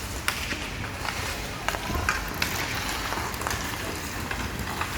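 Ice hockey play on the rink: a steady scrape and hiss of skates on the ice, broken by several sharp clacks of sticks on the puck.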